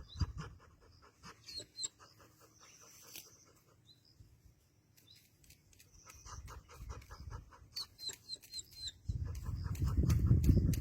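Dog panting rapidly, about five breaths a second, coming and going. Near the end a loud low rumble takes over.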